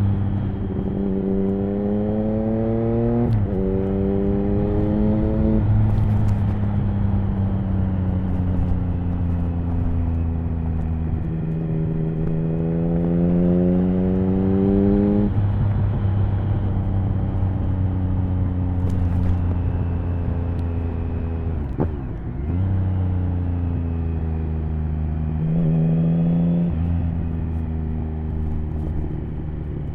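Triumph Speed Triple 1050's three-cylinder engine through an HP Corse Hydroform exhaust, pulling up through the revs in several runs of acceleration. The pitch drops sharply between the runs, as at gear changes, and holds steadier stretches in between, over a steady rush of noise.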